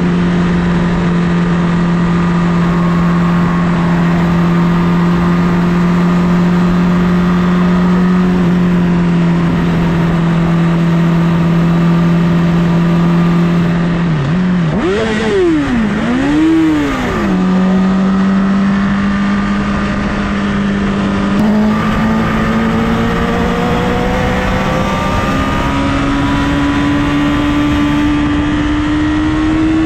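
Honda CBR1000RR inline-four engine running at steady revs under a rush of wind noise. About halfway through the revs dip and are blipped up and down twice in quick succession, then the bike settles and the revs climb in steps toward the end as it accelerates.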